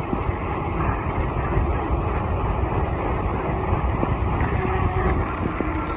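Steady riding noise from a fat-tyre e-bike: wind rushing over the microphone along with the rolling rumble of the tyres on the road.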